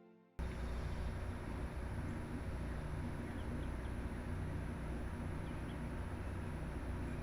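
Steady outdoor rumbling noise that cuts in abruptly just after the start, with a few faint, short high chirps over it.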